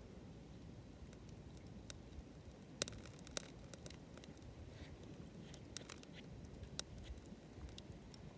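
Wood bonfire crackling: scattered sharp pops and snaps over a faint low rumble, the loudest pops about three seconds in.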